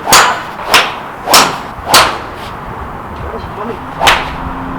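Golf club swung hard through the air, swishing five times: four quick swishes about half a second apart, then one more near the end.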